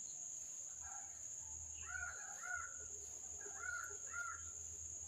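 Crow cawing: two pairs of caws, the first about two seconds in and the second about four seconds in.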